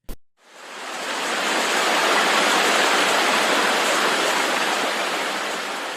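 Rushing water: a steady, even rush that fades in over the first second or two and fades out near the end.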